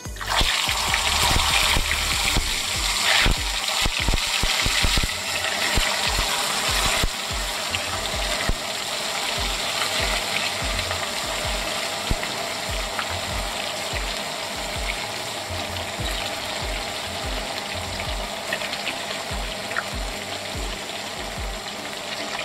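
Paneer cubes sizzling as they fry in hot oil in a wok, loudest for the first several seconds as the pieces go in, then a steady sizzle.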